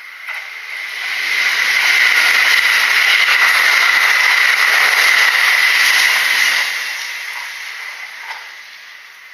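Kintetsu Nagoya Line electric train passing close by: its running noise swells about a second in, stays loud for about five seconds, then fades away.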